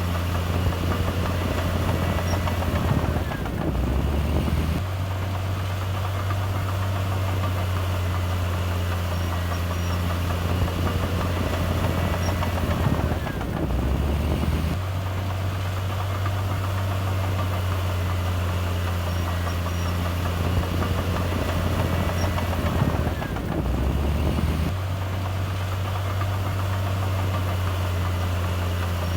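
Diesel engine of a Komatsu D58E bulldozer running steadily. Its low note changes for a couple of seconds about every ten seconds, three times, as it works.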